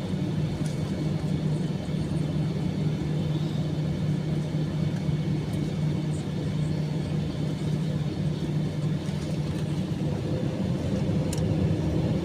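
Steady cabin noise inside an Airbus A321-200 taxiing after landing: a low, even drone from the idling engines and air conditioning.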